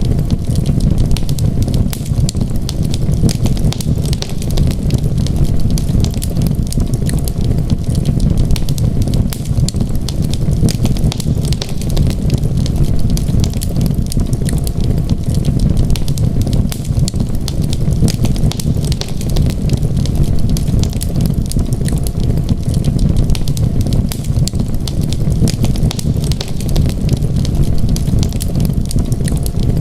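Wood fire crackling, a dense stream of small sharp pops, over a steady low rumble of storm wind.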